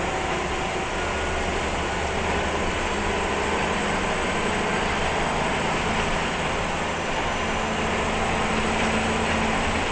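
Diesel engine of a 1999 Scania L94-UB city bus running steadily at low speed, an even hum with no change in pitch.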